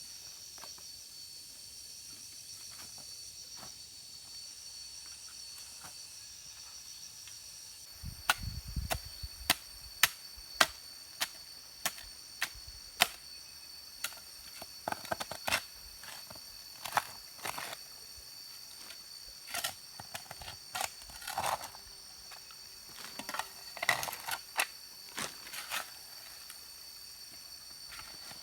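Steady high-pitched insect chirring, joined about eight seconds in by a long irregular run of sharp knocks and clicks, several a second at times, the first few with a dull low thud.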